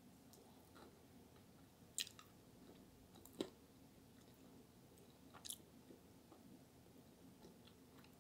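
Faint closed-mouth chewing of a mouthful of eggplant parmigiana, with three short clicks about two, three and a half, and five and a half seconds in.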